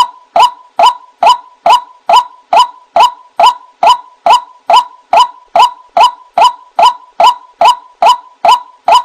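White-breasted waterhen (ruak-ruak) calling: a short, loud "kruak" note repeated at a steady pace of a little over two a second, from a recording used as a bird-trapping lure.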